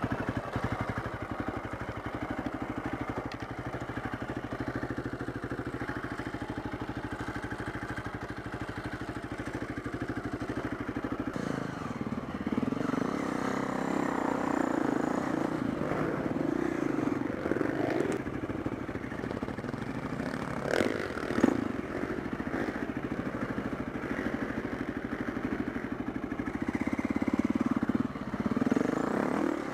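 Single-cylinder four-stroke enduro motorcycle engine running at a steady low speed, then working harder and more unevenly under changing throttle from about twelve seconds in. A few sharp knocks and clatters sound around the middle.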